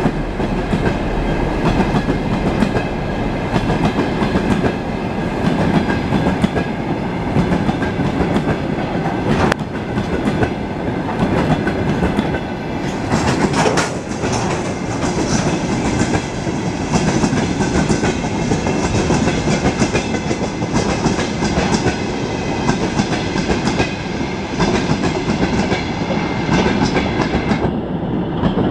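Freight train of railway tank cars rolling past at close range, the wheels clattering over the rail joints in a steady, continuous rumble.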